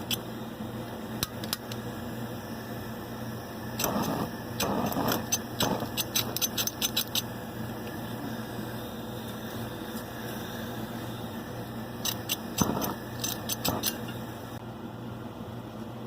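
Quick runs of light clicks and rattles in two bursts, about four seconds in and again about twelve seconds in, over a steady low hum.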